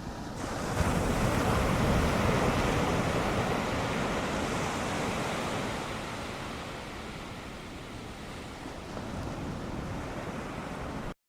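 Ocean surf from a typhoon swell breaking and washing ashore: a wave crashes about a second in, the rush eases off, and another builds near the end before the sound cuts off abruptly.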